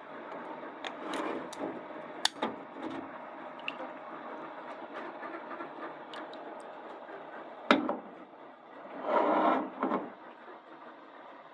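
Metal carburetor parts being dug out of a can of carburetor cleaner and handled: scattered small clicks and clinks, a sharp knock near the middle, and a brief scraping rush about nine seconds in.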